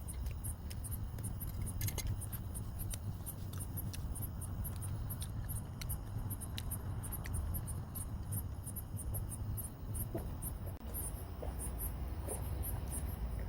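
Insects chirping in a rapid, irregular series of short high chirps over a low steady rumble, with a few sharper clicks mixed in.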